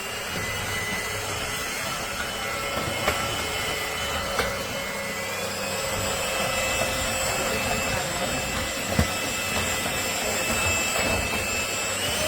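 Trucozie cordless stick vacuum running steadily with a high motor whine, with a few sharp clicks. The whine steps up slightly in pitch about halfway through.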